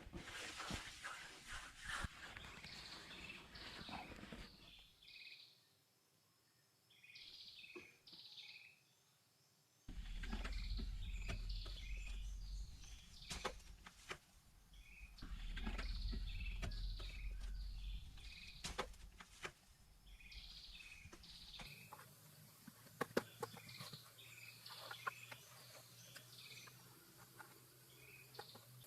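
Birds chirping in short, repeated calls, with scattered knocks and clicks and a low rumble for several seconds in the middle.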